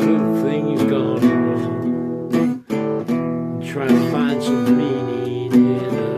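Acoustic guitar strummed in a steady pattern of chords, with a brief break about two and a half seconds in.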